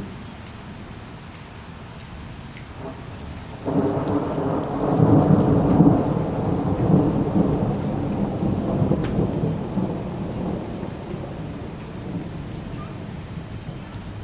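Thunder rolling over steady rain: a rumble starts suddenly about four seconds in, is loudest shortly after, and fades away over several seconds while the rain goes on.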